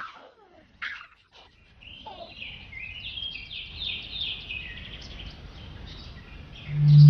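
Birds chirping, a quick run of short falling chirps, after two brief sharp sounds in the first second. A loud low tone starts near the end as music comes in.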